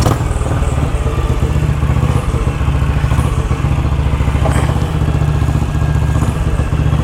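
BSA Gold Star DB34's 500 cc single-cylinder engine running steadily, not revved.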